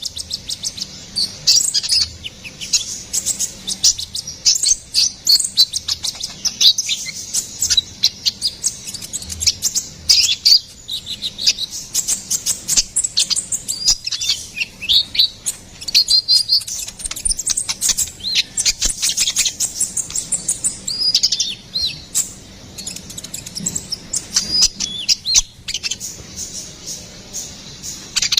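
Konin (kolibri ninja) sunbird singing: a fast, continuous run of high, thin chirps, twitters and short pitch-sweeping notes.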